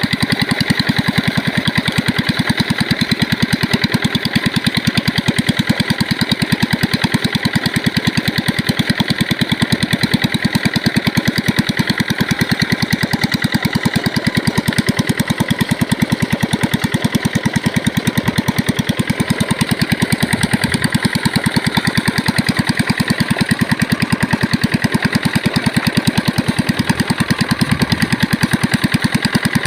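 Old diesel water-pump engine running steadily, with an even, rapid chugging beat.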